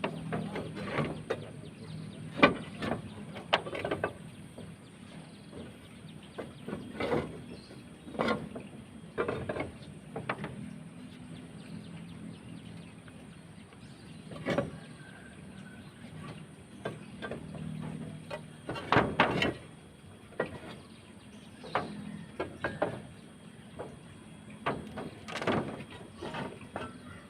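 Roof tiles being lifted off and set down by hand, with irregular clacks and knocks of tile on tile and some scraping.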